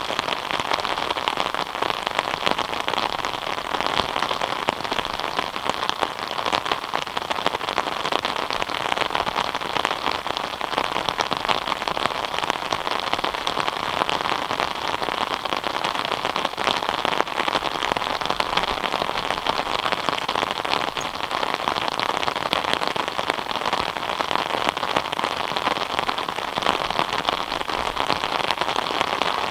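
Steady rain falling on a surface, an even hiss thick with the patter of individual drops.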